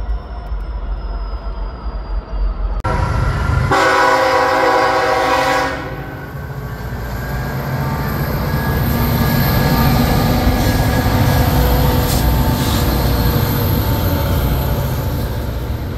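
BNSF diesel locomotive air horn sounding one blast of about two seconds, starting about four seconds in. The locomotives then rumble past steadily, engines running and wheels on the rails.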